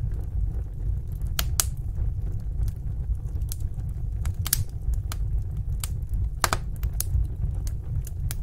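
Fire crackling in a fireplace: sharp snaps and pops at irregular intervals, some in quick pairs, over a steady low rumble of the burning fire.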